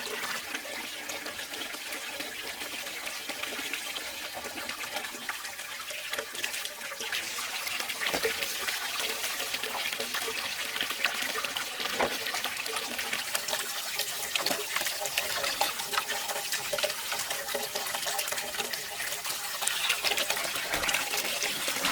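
Water running steadily, with scattered small clicks and knocks.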